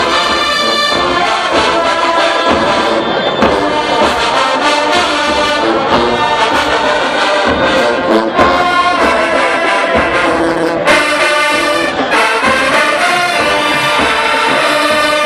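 HBCU show-style marching band playing loudly, its brass section of trombones and trumpets carrying sustained chords over drum hits.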